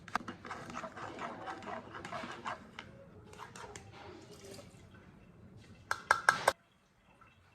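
Light kitchen clatter of dishes and utensils, with a few sharp clinks about six seconds in before the sound drops away to near silence.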